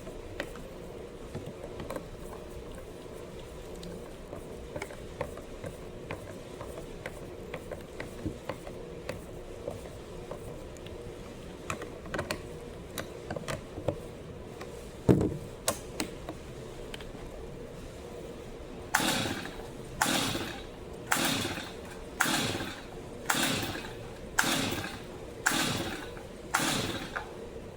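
Stihl MS 250 chainsaw's recoil starter pulled eight times in a row, about once a second, each pull a short rasping whir as the rope turns the engine over, and the engine never catches: it has spark but won't start. Before the pulls, light clicks and a single knock as the saw is handled.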